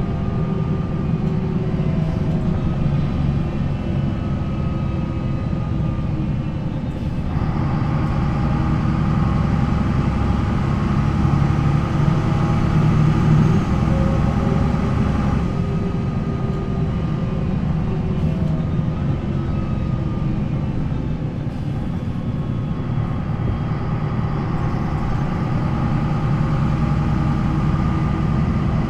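MAN NL 263 bus's D28 diesel engine running under way through its ZF Ecomat automatic gearbox, with a steady whine above the engine note. The sound changes abruptly about seven and again about fifteen seconds in.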